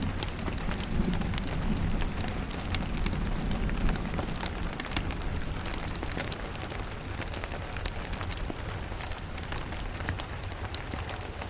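Steady rain with many small sharp crackles scattered through it, and a low rumble of distant thunder fading out over the first few seconds.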